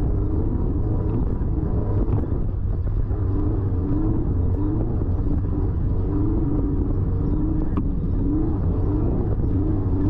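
Off-road race vehicle's engine running hard over a steady low drone, its pitch swinging up and down about once every second, as though working over rough, uneven ground.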